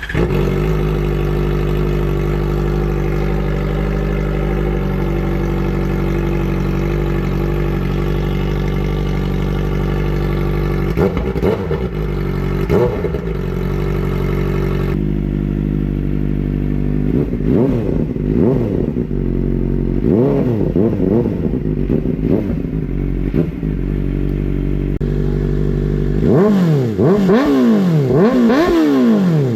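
Big motorcycle engine idling steadily, with the throttle blipped again and again so that the engine note rises and falls back, the blips coming thickest near the end.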